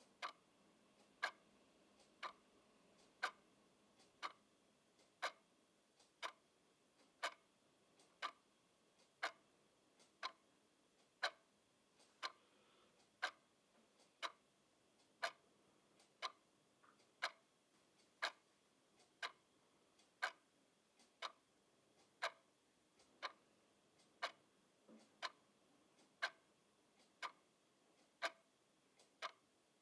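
Clock ticking steadily, about one tick a second, each tick a sharp click over a quiet background, with a few fainter extra clicks in between.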